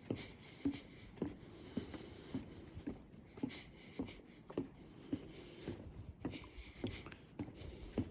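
Footsteps on a wooden boardwalk: steady walking, a little under two hollow knocks a second, over a faint steady hiss.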